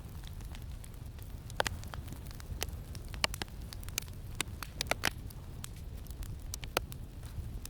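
Campfire crackling, with irregular sharp pops and snaps over a steady low rumble of wind.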